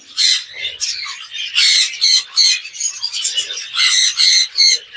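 Budgerigar colony chattering: a dense, rapid run of short, high calls and squawks, louder in a few clusters.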